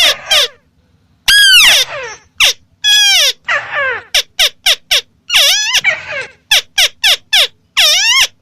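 White-browed crake calling: a series of loud, harsh notes, each rising and then falling in pitch. After a brief pause near the start they come about two or three a second.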